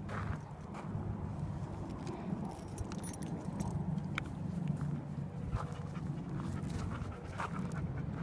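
Dog sounds from dogs at play, with short scattered clicks over a steady low rumble.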